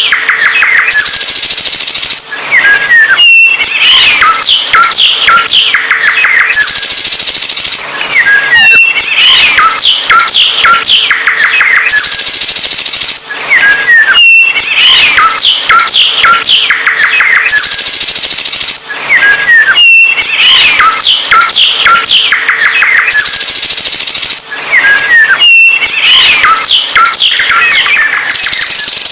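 A songbird singing loud, rapid chirps, trills and whistles. The same song sequence comes round again about every five and a half seconds.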